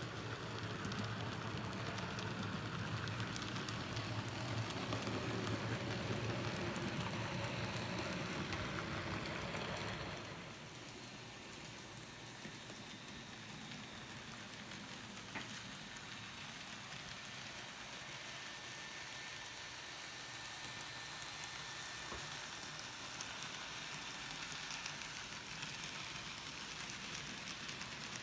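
N gauge model train running on the layout track: a steady rattling rolling noise of small wheels on rail. It is louder for about the first ten seconds, then drops off and carries on more quietly.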